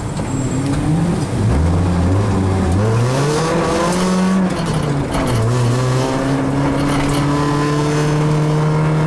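Rally car's engine heard from inside the cabin, accelerating on the stage. The revs climb for a few seconds, drop at a gear change about five seconds in, then hold steady.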